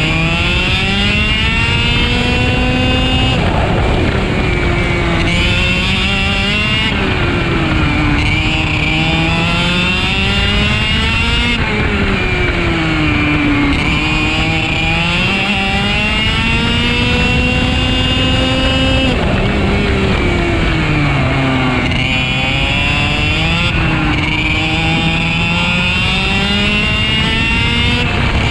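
IAME two-stroke racing kart engine on a flying lap, heard onboard. Its note climbs steadily for several seconds down each straight, then falls away sharply under braking for the corners, about half a dozen times, with no gear changes.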